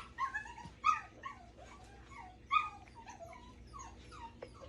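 Puppies whining and yipping over and over in short, high cries that fall in pitch, several a second, louder in the first second and fainter later. They are hungry puppies waiting to be fed.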